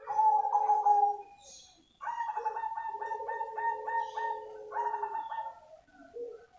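Zebra dove of the black cemani variety cooing: a short phrase of coos, a brief pause, then a longer run of rapid pulsed coos lasting about three seconds.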